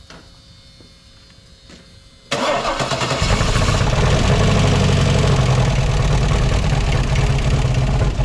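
GM 6.0-litre aluminium L76 V8 on a test stand starting for the first time: about two seconds in it cranks briefly, catches and runs steadily at idle.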